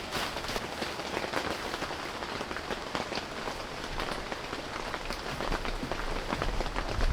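Steady rain, with many separate drops heard striking a surface.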